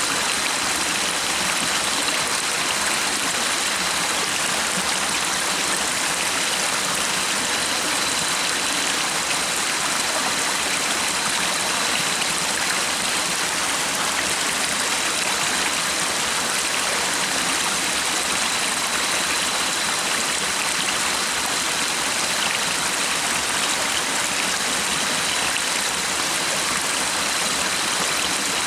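A stream flowing with a steady, even rushing hiss and no breaks, with a faint high thin tone held steadily underneath.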